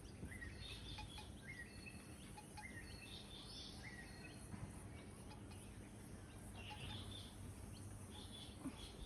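Faint outdoor birdsong: a series of short high chirps and little rising whistled notes, about one a second at first, then more scattered, over a low steady background rumble.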